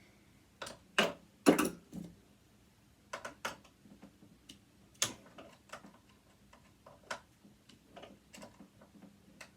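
Irregular clicks and knocks of metal parts as a sewing machine's casing is worked on by hand, the loudest ones about a second in and about five seconds in.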